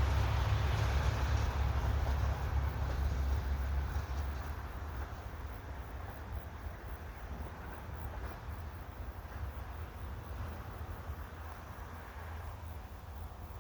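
JR HB-E300 series hybrid diesel railcar running away into the distance after passing, its sound fading over the first few seconds, with a low rumble of wind on the microphone underneath.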